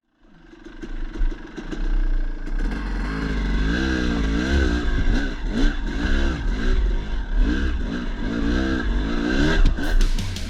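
Dirt bike engine revving up and down over and over as it climbs over rock, over a steady low rumble.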